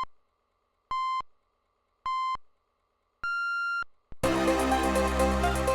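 Amiga demo soundtrack: three short synthesized beeps about a second apart, then a longer, higher beep, like a start countdown. About four seconds in, loud electronic music with a steady beat kicks in.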